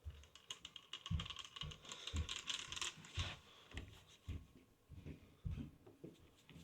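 Irregular clicks and knocks from the parts of a 1950s Clausing 4800 metal lathe being worked by hand, with a brief stretch of light scraping or rattling between about half a second and three seconds in.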